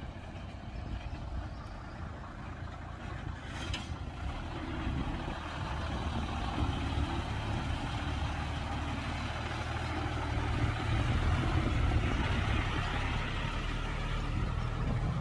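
Heavy diesel engine of an earthmoving machine running with a low steady drone, growing louder over the first ten seconds or so.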